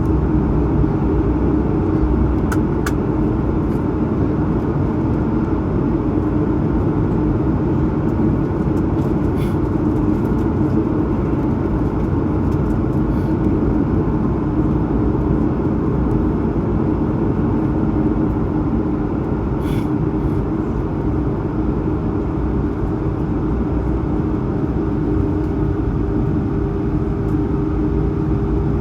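Steady cabin noise of an Airbus A220-100 in the climb: the rush of air past the fuselage and the drone of its Pratt & Whitney PW1500G geared turbofans at climb power, with a steady low hum. A few faint clicks.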